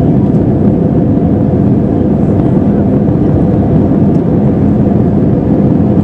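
Airbus A320-214 cabin noise in flight: a steady, loud drone of rushing air and its CFM56 engines, with a faint even hum under it.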